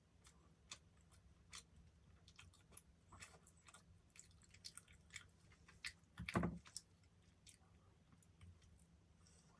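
Close-up chewing of a soft dessert: faint, scattered wet mouth clicks and smacks, with one louder, lower mouth sound about six seconds in.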